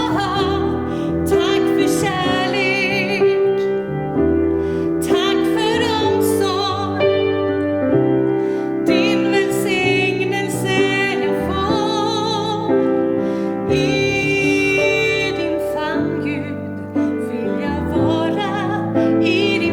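A woman singing a slow song with vibrato to piano accompaniment.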